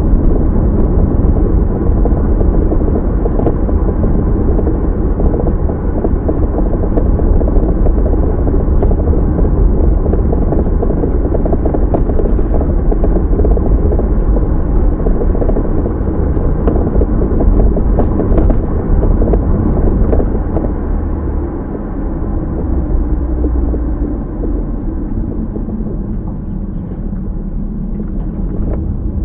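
Steady low rumble of road and engine noise inside a moving car, picked up by a dashcam's microphone, easing a little about twenty seconds in.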